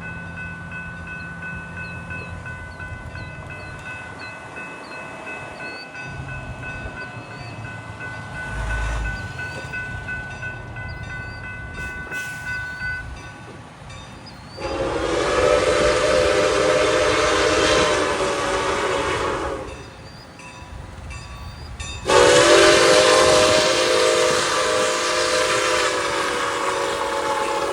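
Locomotive air horn sounding two long blasts, each about five seconds with a short gap between, the second still going at the end. Before the horn, a low steady rumble with a faint steady whine.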